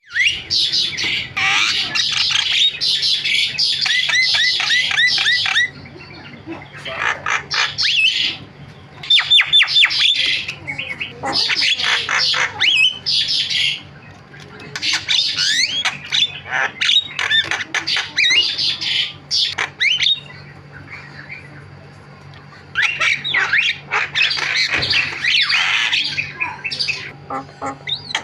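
Javan myna (jalak kebo) chattering: fast bursts of harsh squawks, rattles and quick whistled notes, broken by a few pauses of one to three seconds.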